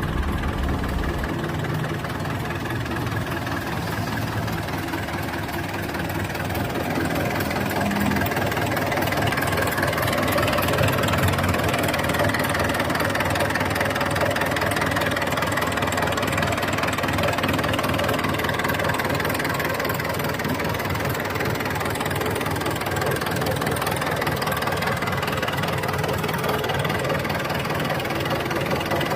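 Isuzu 4BC2 3.3-litre four-cylinder diesel engine running steadily at idle after an overhaul, a little louder from about seven seconds in.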